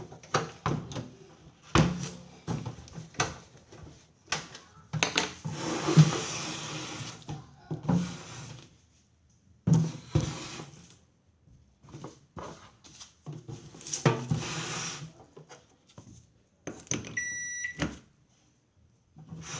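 Irregular clunks, knocks and rustling as the microwave is handled, then near the end a single short electronic beep from the microwave's control panel.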